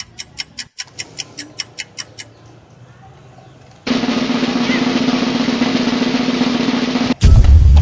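Edited sound effects. First comes a quick run of sharp ticks, about six a second, which stops after about two seconds. A steady rushing noise with a low hum follows, and near the end a much louder, deep, bass-heavy sound comes in.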